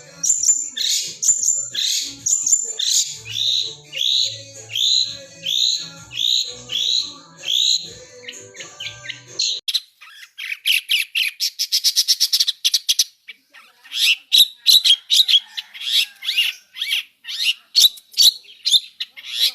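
Long-tailed shrike singing a mimicking song: first a run of repeated downslurred whistled notes, then, about halfway through, an abrupt switch to a fast chattering trill and sharp, clipped notes.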